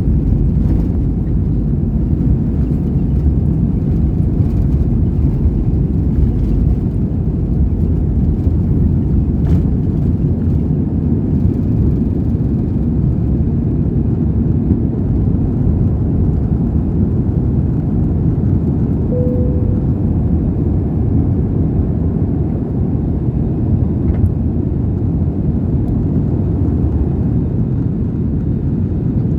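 Steady low rumble of an Airbus A320's engines and airflow heard inside the passenger cabin. The level holds even, with no spool-up. A short faint tone sounds about two-thirds of the way through.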